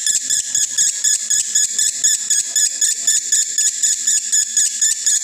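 Male lovebird singing the unbroken 'konslet' song: a continuous run of shrill chirps at about four to five a second, the song of a male in breeding condition.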